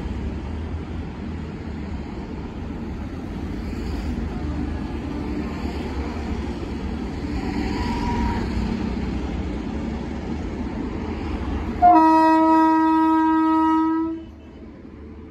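Indian Railways electric locomotive and coaches rolling past with a steady low rumble on the rails. About twelve seconds in, a single loud train horn blast sounds for about two seconds and cuts off sharply.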